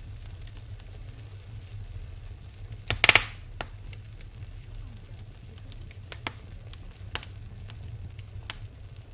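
Wood fire in a fireplace crackling: scattered sharp pops over a steady low rumble, with one loud burst of pops about three seconds in.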